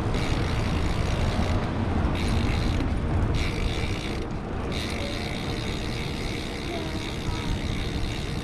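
Wind rushing over a moving action camera's microphone, with bicycle tyre and road noise, while riding.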